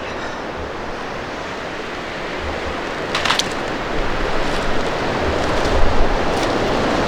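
Blizzard wind blowing hard and buffeting the microphone, growing louder toward the end, with a short scraping sound about three seconds in.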